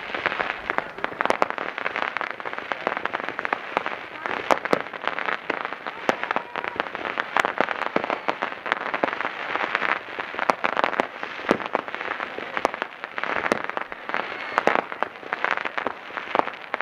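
Fireworks going off in rapid succession: a dense, unbroken run of sharp pops and crackles with some louder reports among them.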